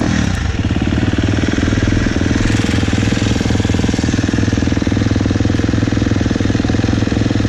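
Husqvarna 250F four-stroke single-cylinder dirt bike engine running steadily with a fast, even pulse.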